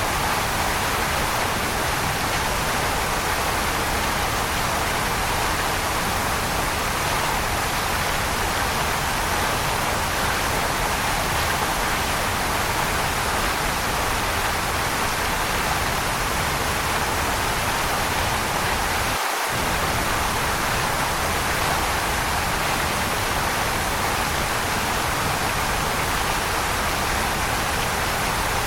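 A waterfall's steady rush of falling water, an even hiss-like noise.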